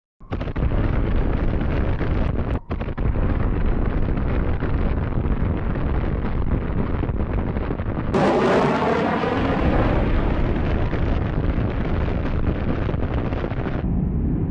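Loud, steady roar of jet aircraft engines, broken by short cuts between shots. About eight seconds in, a sweeping whine rises through the roar.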